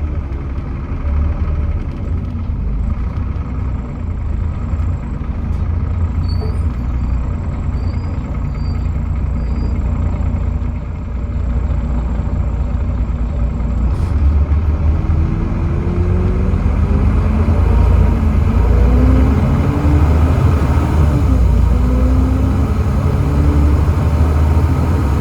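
Volvo D7C 7.3-litre diesel engine of a Volvo B7TL double-decker bus running with a heavy low rumble. In the second half it pulls harder and rises in pitch in a series of short steps, typical of the ZF Ecomat automatic gearbox working up through its gears as the bus accelerates.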